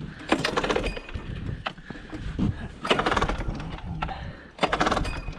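Small engine's recoil starter pulled three times, each pull a short rattling crank of the engine, with no sign of it catching.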